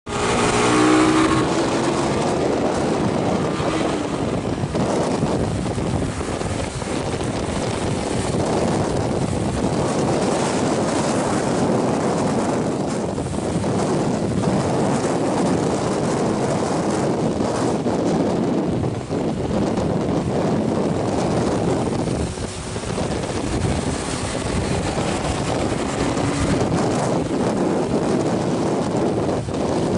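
Motorcycle being ridden downhill, its engine running steadily under wind rushing over the microphone, with a pitched engine note standing out in the first second or so.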